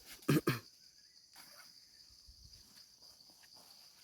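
Steady high-pitched insect chorus from the surrounding forest, broken about a third of a second in by two short loud sounds in quick succession.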